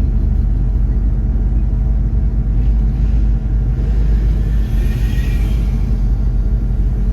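1972 Ford Mustang Mach 1's V8 engine running at a steady cruise, a continuous low rumble of engine and road.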